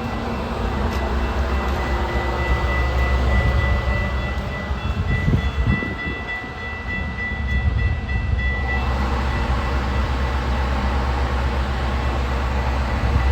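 Train passing with a heavy, steady rumble. A thin high-pitched ring or squeal sounds over it and stops abruptly about nine seconds in, after which a louder rushing hiss takes over.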